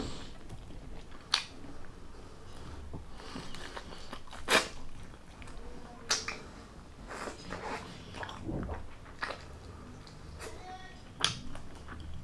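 Close-miked chewing and mouth sounds of a man eating chicken adobo by hand, with several sharp, brief wet smacks or clicks scattered through the chewing.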